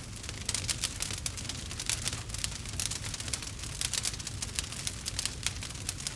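Log fire crackling in a fireplace: many irregular pops and snaps over a low, steady rumble.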